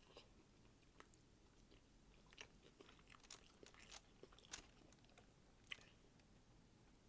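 Faint close-up chewing and biting of food, with scattered small crunchy clicks that are busiest in the middle.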